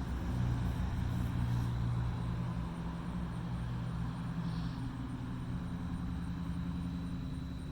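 A motor vehicle's engine with a low, steady hum that slowly fades.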